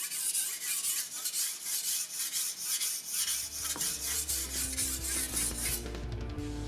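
Rhythmic back-and-forth rubbing strokes of an abrasive or file on a steel blade, about two strokes a second, stopping near the end. Background music comes in about halfway through.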